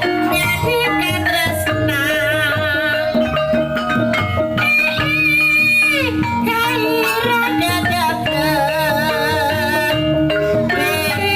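Javanese gamelan-style accompaniment for a kuda lumping performance: struck tuned percussion under wavering high melodic notes, singing or flute, with one long held note about five seconds in that slides down at its end.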